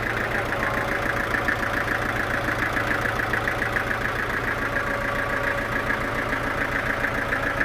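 Sawmill engine running steadily with an even, rapid pulse.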